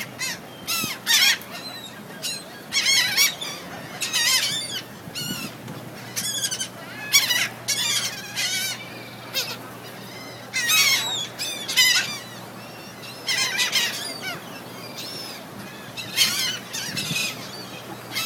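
A flock of birds calling over and over: short, high, wavering calls that come in quick clusters every second or two.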